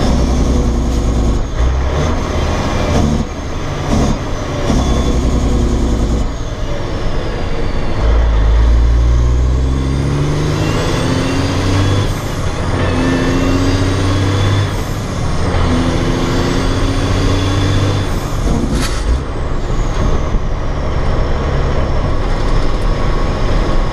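Truck's Caterpillar C15 diesel pulling under load, its pitch climbing and then dropping back at each clutchless upshift, three times in a row from about halfway through. A few sharp clicks or hisses of air come early and near the end.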